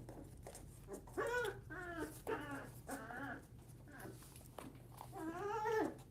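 Young puppies whining and yelping: about four short, wavering high calls in quick succession, then a longer whine near the end.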